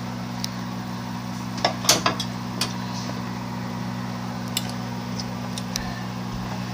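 Light clinks and clicks of a bowl and spoon being handled, scattered irregularly with a small cluster about two seconds in, over a steady low hum.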